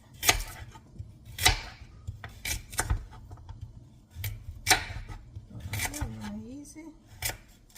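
Food being cut up by hand in a kitchen: irregular, sharp cutting strikes, about a dozen spread unevenly, some louder than others.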